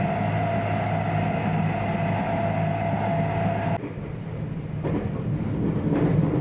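Electric commuter train running at speed across a river bridge, a steady rumble with a held hum over it. About four seconds in the sound cuts to the quieter running noise heard inside the passenger car, which builds up again toward the end.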